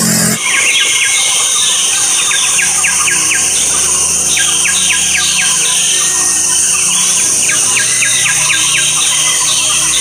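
Bird calling in short runs of quick falling notes, three runs in all, over a steady high-pitched drone.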